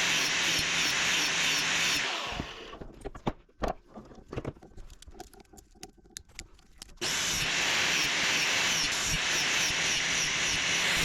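Angle grinder cutting into a small electric motor, a steady hissing grind over the disc's hum. It winds down about two seconds in, leaving a few knocks of metal parts being handled, then cuts in again abruptly about seven seconds in.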